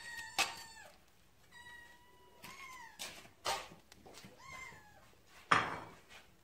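Cats meowing again and again, about five drawn-out calls, some held and bending in pitch, begging for the food on the grill. A louder, rougher noisy burst comes near the end.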